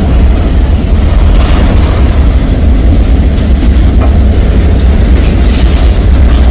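Boxcars of a freight train rolling past close by: a loud, steady rumble of steel wheels on rail, with a few faint clicks.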